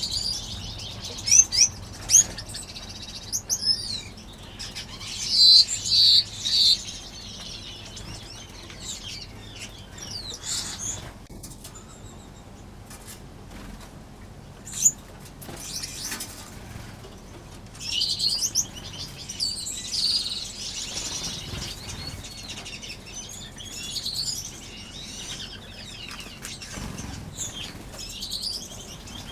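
Small aviary finches chirping and twittering in scattered bursts, the loudest clusters in the first seven seconds and a sharp single note near the middle, with brief wing flutters as birds flit about.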